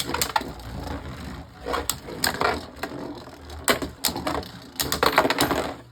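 Beyblade Burst spinning tops whirring and clashing in a plastic stadium, with repeated sharp clicks and knocks as they collide, the heaviest run of hits near the end. The battle ends in a burst finish, one top knocked apart.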